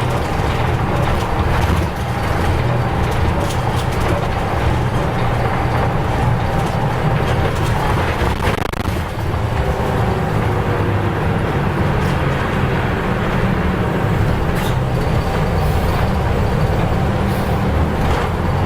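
Nissan Diesel U-UA440LSN city bus's diesel engine running steadily as the bus drives, with a low drone and brief dips in level about two seconds in and again around nine seconds.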